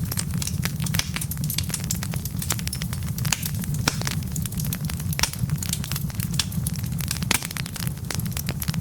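Wood fire of burning logs crackling steadily, with frequent irregular sharp pops and snaps over a constant low rumble.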